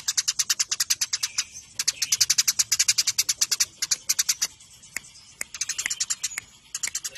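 Eurasian tree sparrows chirping in fast, tight runs of sharp high chirps, about ten a second, with short pauses between runs: the excited chatter of sparrows squabbling.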